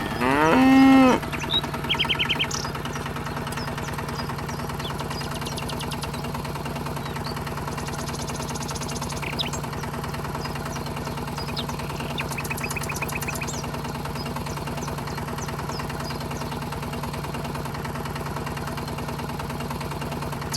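A cow moos once, loudly, in the first second. Then a steady low drone with a fast even pulse, like a small engine running, carries on throughout, with a few short bird chirps over it.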